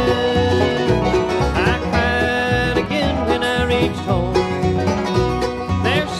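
Bluegrass band playing an instrumental passage with banjo, guitar and bass, and lead notes that slide up and down in pitch.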